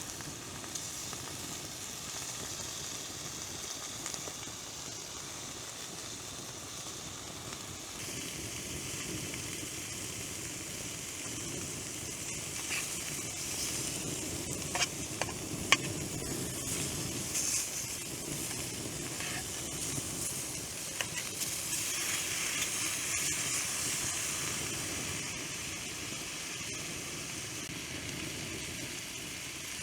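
Food frying in a pan, a steady sizzle, with a few sharp clicks about halfway through.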